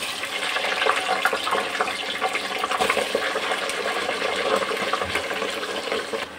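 Raw chicken pieces sizzling and crackling loudly in hot oil in a cooking pot, just after going in to fry.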